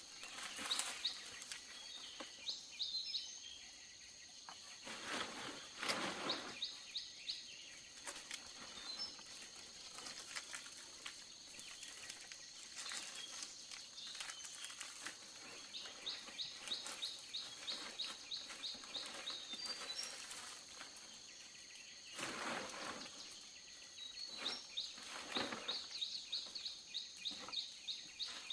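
Outdoor ambience with birds calling in rapid runs of short, repeated chirps that come and go, over a steady high-pitched whine. Two longer spells of scraping or rustling noise come about a fifth of the way in and again past the three-quarter mark.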